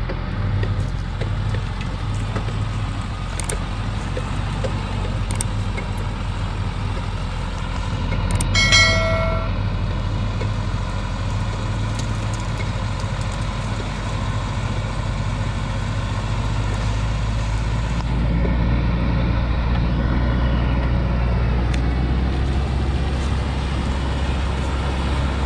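Laden timber truck's engine running steadily, with a brief pitched tone about nine seconds in that is the loudest moment; the engine sound gets louder and deeper about eighteen seconds in.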